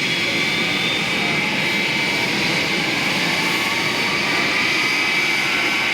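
Boeing 707's Pratt & Whitney JT3D turbofan engines running: steady jet noise with a piercing high whine and fainter tones that rise slightly in pitch.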